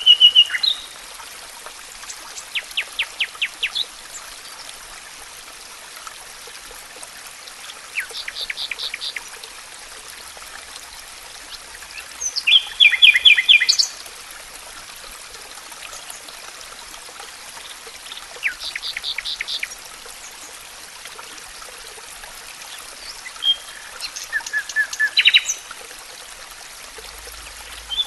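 Songbirds singing in short phrases of rapid repeated notes, one phrase every five seconds or so, over a steady background hiss like a trickling stream.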